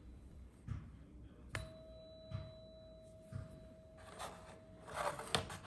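A small tuning fork struck once with its mallet about one and a half seconds in, then ringing a steady pure tone that carries on undamped. Faint knocks and rustle come in near the end.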